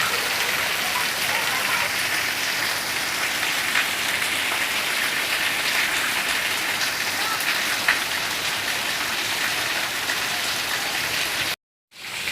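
Steady rain falling, a dense hiss with the patter of drops. It cuts out for a moment near the end.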